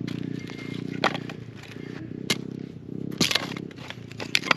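Firewood being chopped: four sharp wooden knocks at irregular intervals of about a second or more, the second and third the loudest, over a steady low hum.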